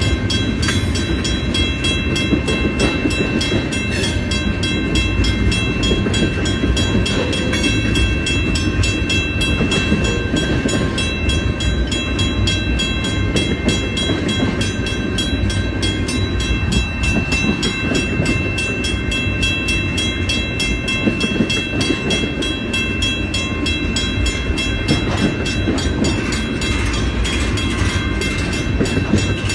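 Train rolling by at close range: a loud, steady rumble of wheels on rail with fine clicking, and a few steady high-pitched ringing tones held over it throughout.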